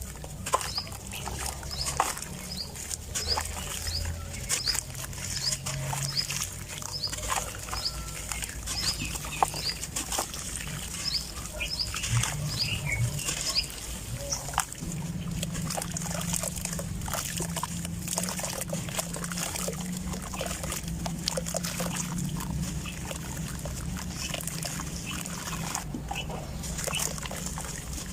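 Dry sand-cement chunks crumbling and being crushed by hand, a dense run of small crunches and crackles with scattered louder snaps. A row of short, high, evenly spaced chirps runs through the first half.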